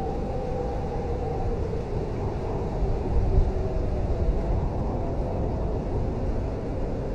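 Blizzard wind howling, with wavering whistle-like tones over a steady low rumble, gusting harder about three seconds in.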